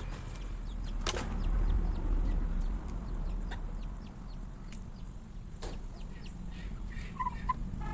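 Chickens clucking while they feed, over a steady low rumble, with many light clicks and two sharper knocks, one about a second in and one midway. Two short high peeps come near the end.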